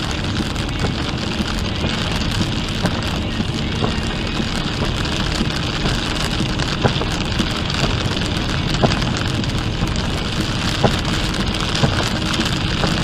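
Heavy rain hitting a moving car, with steady road and tyre noise heard inside the car. Scattered sharper drop hits stand out from the steady rush.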